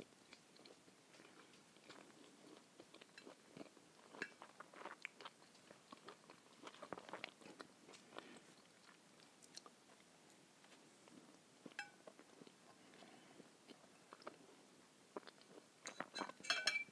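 Faint close-miked chewing and mouth sounds of eating bread topped with mackerel in tomato sauce, with scattered small clicks. Near the end a brief cluster of sharper clicks as the knife and fork cut on the plate.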